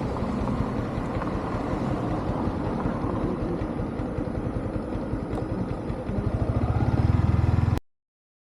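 Yamaha MT-15's single-cylinder four-stroke engine running, its rapid firing pulses steady and then getting louder about six seconds in. The sound cuts off abruptly near the end.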